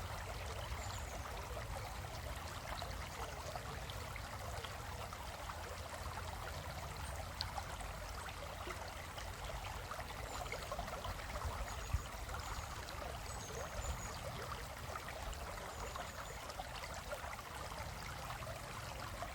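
Shallow stream flowing steadily over rocks, a continuous babbling trickle of water.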